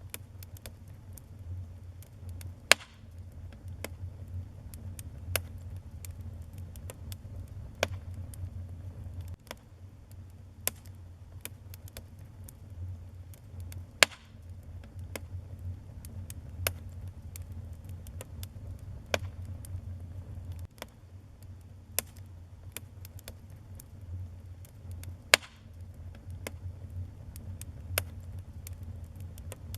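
Wood fire burning in a fireplace: a steady low rumble of the flames with irregular crackles and a few sharp louder pops, about 3, 14 and 25 seconds in.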